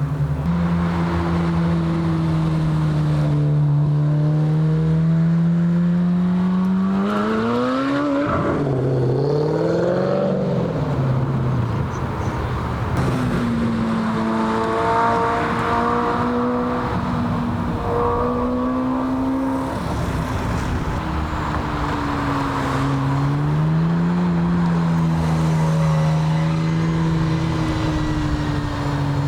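Car engine sounds from cars pulling out and driving by. The engine pitch holds and then rises sharply about seven seconds in, wavers, and rises and falls again around twenty-four seconds.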